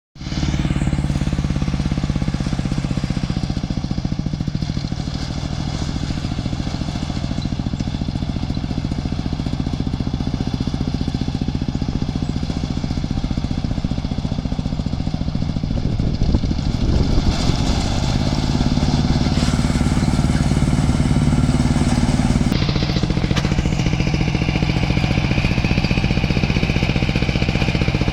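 Rice combine harvester's diesel engine running steadily under load. Its note rises for a few seconds just past the middle, then drops back.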